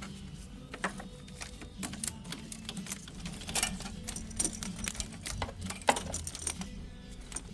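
Scattered light clicks and small knocks of hands working on plastic and metal parts in a car's engine bay, over a low steady hum.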